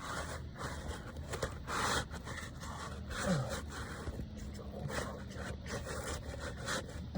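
Irregular scraping and rustling as a roof snake, a thin steel shingle-repair bar, is worked up under asphalt shingles.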